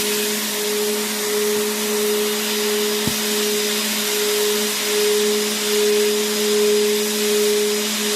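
Vacuum cleaner motor running continuously: a steady, even rushing of air over a constant motor hum. A single faint click sounds about three seconds in.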